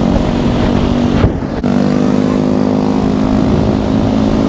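Several small gas-powered scooter engines running steadily together with a droning tone, under low wind rumble on the microphone. A short break about a second in.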